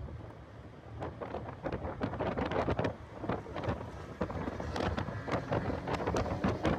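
Heavy wind buffeting on the microphone of a car at speed on a race track, in gusty, crackling bursts that grow louder about a second in.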